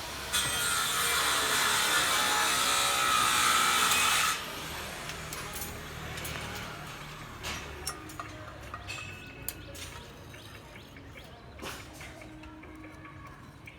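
A power cutting tool running under load for about four seconds, with a slightly falling whine, then cutting off suddenly. Scattered light clicks and knocks of work with the steel follow.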